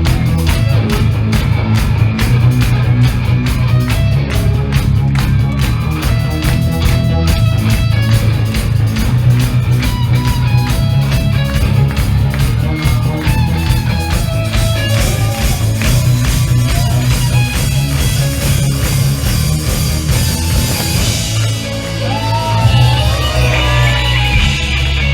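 Live emo/hardcore band playing loud: distorted electric guitars, bass and pounding drums, with some shouted vocals. In the last few seconds the drums ease off and wavering guitar lines stand out over the bass.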